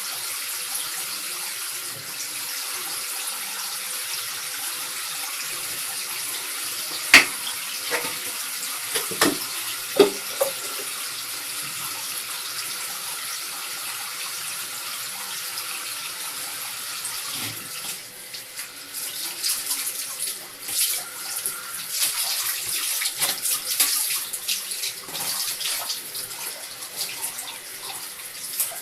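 Tap water running steadily into a bath or sink, with a few sharp knocks about a third of the way in. In the last third the water turns uneven with splashing and sloshing as a cat is washed.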